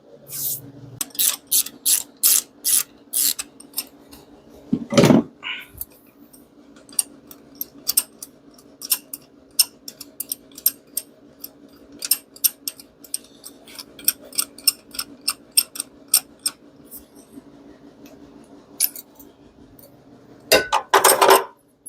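Small hard parts clicking and rattling as they are handled: a spark plug and ignition coil, old and new, turned over and tapped together, with a louder knock about five seconds in and a quick flurry of clatter near the end. A faint steady hum sits underneath.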